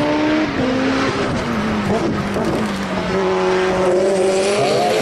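Race car engine at full throttle, with an upshift about half a second in; the engine pitch then sinks slowly and climbs again near the end as the car accelerates.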